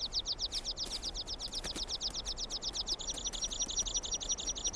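A bird's rapid trill of high, falling chirps, about ten a second, running on without a break. About three seconds in, a second run of shorter, higher chirps joins in, over a faint outdoor hiss.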